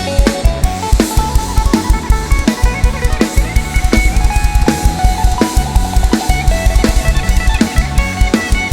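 Live band playing an instrumental break: a fast, steady drum-kit beat with bass drum and snare under held melody notes, with no singing.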